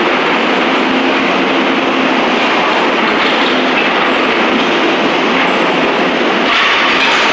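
Skid steer running while it clears broken concrete debris: a loud, steady, dense clatter and rumble of machine and rubble, with a faint steady engine hum underneath.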